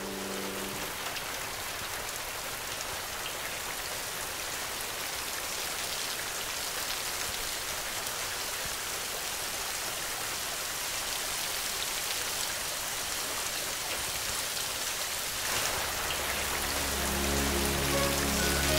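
Steady rain falling, an even hiss of many drops. Near the end a low sustained note and then soft instrumental music come in over the rain.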